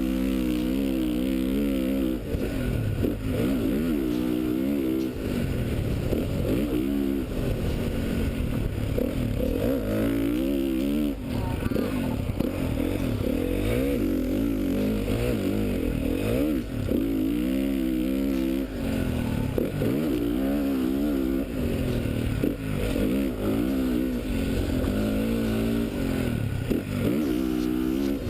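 2013 Honda CRF450 motocross bike's single-cylinder four-stroke engine being ridden hard, its pitch repeatedly rising and falling as the throttle is opened and closed.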